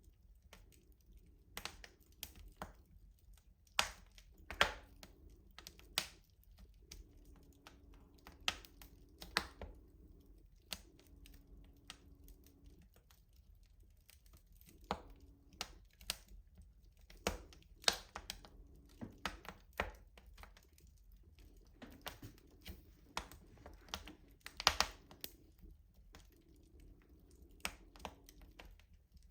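Wood fire crackling in a traditional rustic stove: irregular sharp pops and snaps, a few of them much louder than the rest, over a faint low background.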